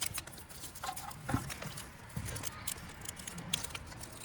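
Scattered light knocks and clicks of metal parts being handled as the A/C compressor is worked out of the engine bay past the wiring harness, with one louder knock about a second and a half in.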